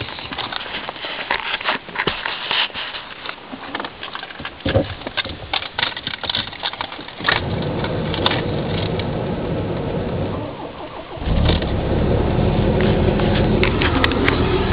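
Cold start of a 1990 Volvo 740 GLE's 16-valve 2.3-litre four-cylinder petrol engine after two days standing at about freezing. Key and handling clicks and rattles come first, then a steadier mechanical sound about seven seconds in. The engine catches and runs steadily, louder and deeper, from about eleven seconds in.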